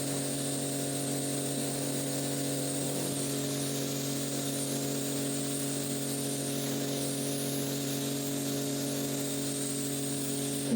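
Electric motor of a rug-cleaning machine running steadily, a constant low hum with hiss above it.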